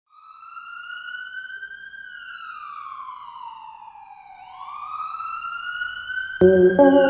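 A siren wailing, its pitch slowly rising, falling and rising again. About six seconds in, loud music with sustained chords comes in over it and becomes the loudest sound.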